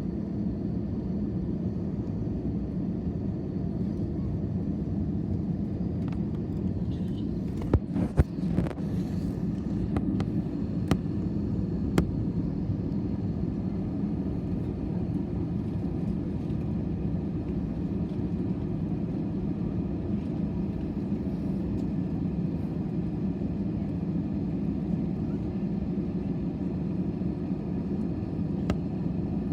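Steady engine and airflow noise of an airliner heard from inside the cabin, with a few sharp clicks or knocks about eight to twelve seconds in and once more near the end.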